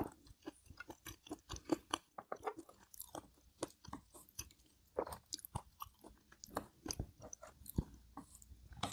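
A person chewing food close to the microphone, with many small, irregular clicks and crunches.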